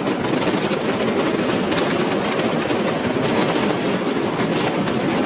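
Fireworks display finale: a dense, continuous barrage of many shells crackling and popping at once over a steady rumble of bangs.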